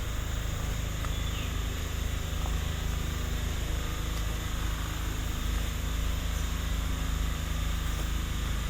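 Steady tropical forest ambience: a constant insect drone high up over a low rumble, with a faint short bird chirp now and then.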